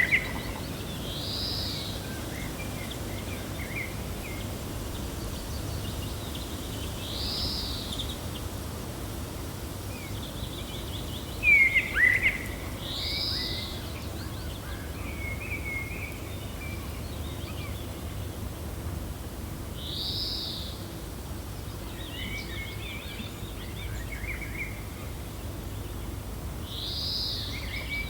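Birds chirping over a steady low wind noise. One bird repeats a short rising-and-falling call about every six seconds, with scattered softer chirps between, and a louder sweeping call comes about twelve seconds in.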